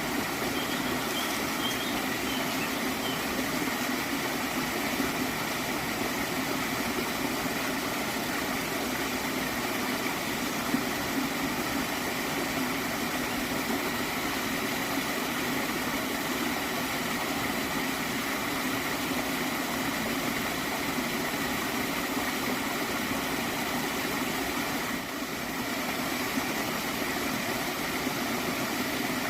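Water in a small stream flowing and gurgling steadily, dipping slightly in level for a moment near the end.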